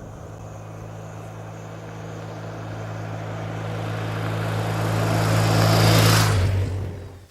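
A truck driving past close by: a steady low engine hum with tyre noise that grows louder over about six seconds, then drops away sharply, the hum falling slightly in pitch as it passes.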